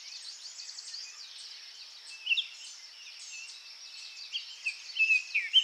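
Wild birds chirping and whistling, with a steady high-pitched hiss underneath. The loudest calls come about two seconds in and in a cluster near the end.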